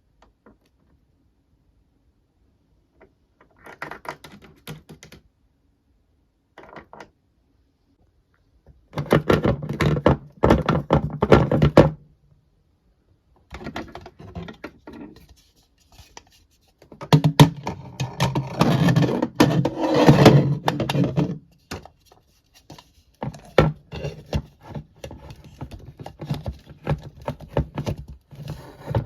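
Plastic toy pieces being handled, clattering and knocking against each other in bursts of rapid small clicks and thunks, with short pauses between the bursts.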